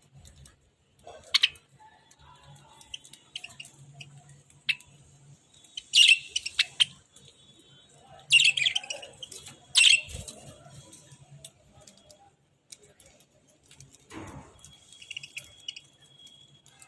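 Budgerigars chirping and giving short, harsh squawks, the loudest calls coming in bursts about six, eight and a half and ten seconds in, with small clicks scattered between them.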